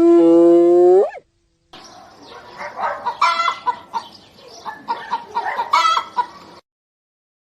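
Chickens: a rooster's long drawn-out crow that rises in pitch at its end, then after a short pause a hen clucking and cackling in quick, uneven calls for about five seconds.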